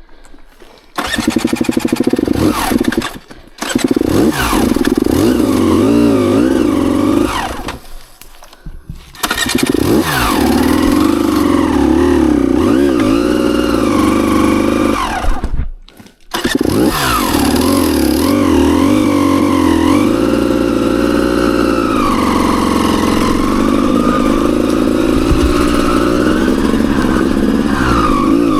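Dirt bike engine starting, cutting out and catching again several times, then running with the revs rising and falling.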